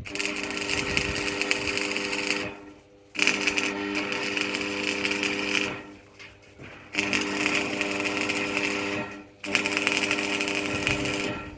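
A small electric motor, such as a power tool's, running with a steady whine in four bursts of about two and a half seconds, cut off briefly between each.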